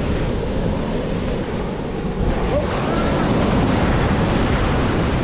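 Ocean surf breaking steadily on the beach, with wind buffeting the microphone; the surf is rough.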